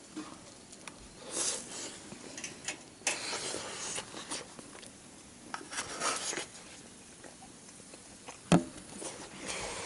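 Intermittent rustling and scraping handling noises, with one sharp knock about eight and a half seconds in.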